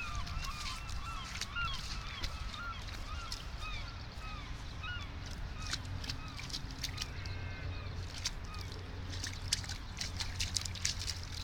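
A flock of birds calling: many short, overlapping honking calls, thick for the first five seconds or so and fewer after. A few sharp clicks come in the second half, over a steady low rumble.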